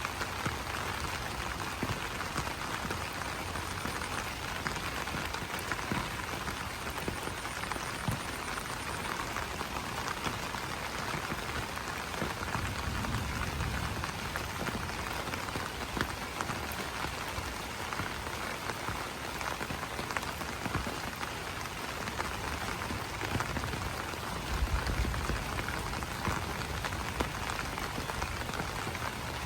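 Steady rain pattering on broad banana leaves: a dense hiss made of many separate drop taps. Brief low rumbles come about halfway through and again near the end.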